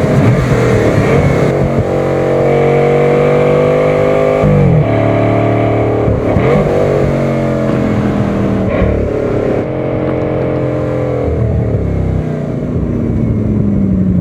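Bugatti's 16-cylinder engine accelerating hard, its pitch climbing and stepping down sharply at each of several gear changes, then falling away near the end as it slows.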